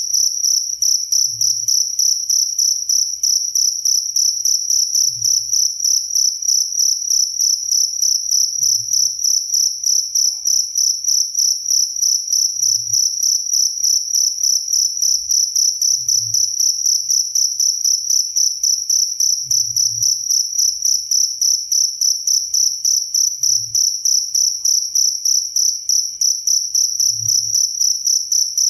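Field cricket chirping without pause: one high-pitched, rapidly pulsing trill.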